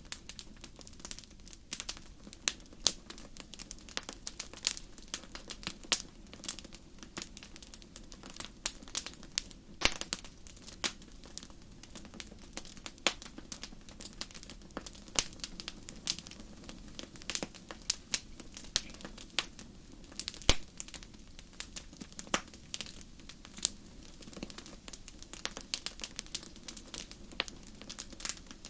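Fireplace fire crackling: irregular sharp pops and snaps, some louder than others, over a low steady hiss of the flames.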